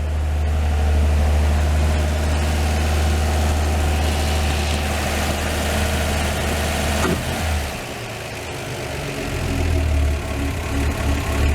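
1954 Chevrolet 235 straight-six with dual carburetors at fast idle on a cold start, running steadily. About seven seconds in the throttle is kicked and the engine drops off fast idle to a slower idle.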